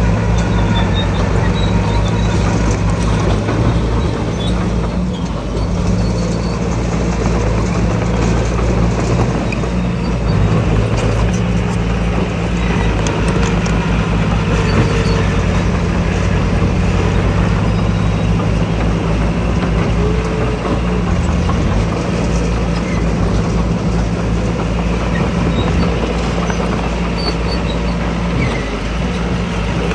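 Diesel engines of earthmoving machinery running steadily at work: a low engine drone that shifts in pitch now and then, over dense mechanical noise.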